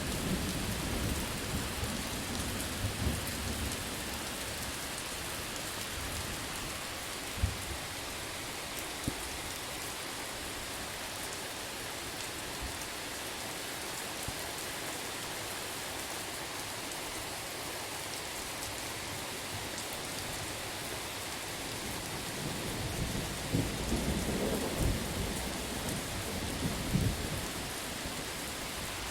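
Steady rain with thunder: a rumble dies away over the first few seconds, a few sharp drips or cracks stand out in the middle, and a new roll of thunder builds near the end.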